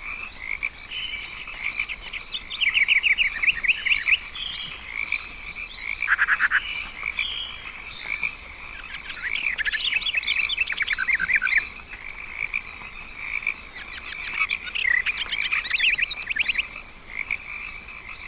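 Rainforest frog chorus: a steady high ringing drone, with three long bursts of rapid trilled calls and one short lower burst.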